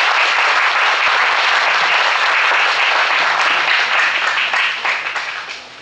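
Audience applauding at the end of a talk: steady, dense clapping that fades out near the end.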